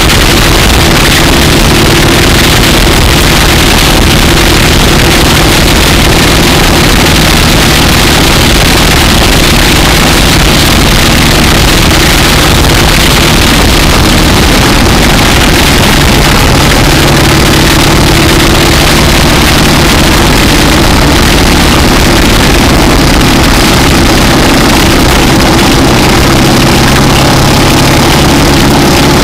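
1960 AJS 650 parallel-twin motorcycle engine running steadily under way, with a steady rush of wind and road noise over it. The engine note shifts a little about halfway through.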